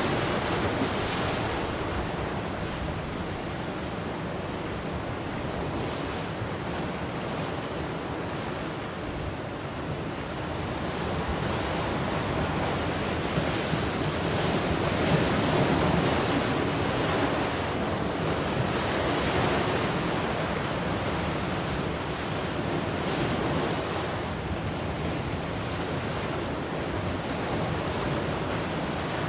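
Ocean surf: waves breaking and washing ashore in a steady wash of noise that swells and falls slowly, loudest about halfway through.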